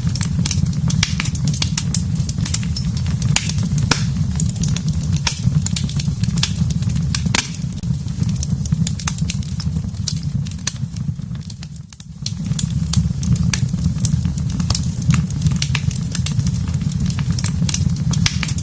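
Wood fire in a fireplace crackling, with frequent sharp pops and snaps over a steady low rumble of the flames. The sound briefly dips and softens about twelve seconds in, then comes back.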